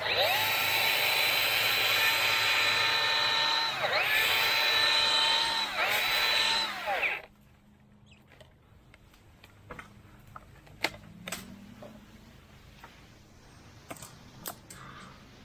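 Milwaukee M18 Hatchet battery-powered mini chainsaw cutting, a high electric whine that dips in pitch under load and recovers three times before stopping about seven seconds in. Faint knocks and clicks follow.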